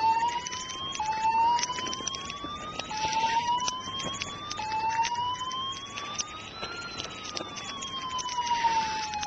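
Fire-truck siren wailing: several short rising sweeps that each restart, then one long slow rise and fall. Many sharp clicks and crackles sound over it.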